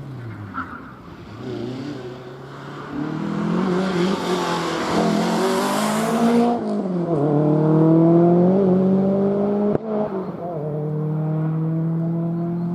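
Four-wheel-drive rally car accelerating hard, its engine pitch climbing through the gears, with a shift about halfway through and another a couple of seconds later, and a rising hiss just before the first shift.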